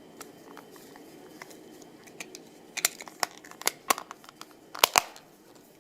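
Plastic clicks and snaps as a 3D-printed polycarbonate key-ring holder is pressed into a Nissan Maxima key fob's plastic shell. Faint handling at first, then a run of sharp clicks from about halfway, with the loudest two close together near the end.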